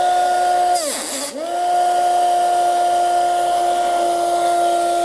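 Small USB-powered coreless motor spinning a propeller in a homemade foam-cup vacuum cleaner, running with a steady high whine. About a second in, its pitch drops sharply as the motor briefly slows, then climbs straight back to speed.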